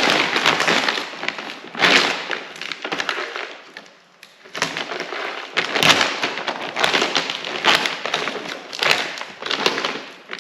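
A feed bag of chicken scratch being handled, rustling and crackling in irregular bursts.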